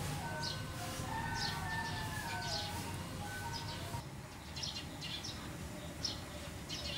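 Birds chirping, short high chirps repeating about once or twice a second, with clear whistled notes and short glides during the first few seconds, over a low steady background hum.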